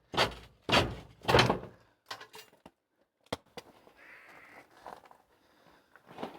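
The door of a small cinder-block shed being tried and pulled open. Three loud bangs come in the first second and a half, then lighter knocks and clicks, and a short creak about four seconds in.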